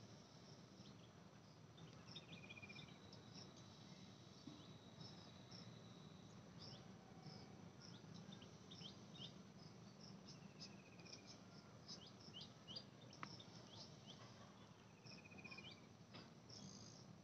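Faint background chirping of insects, with many short high chirps and a few brief trills scattered through.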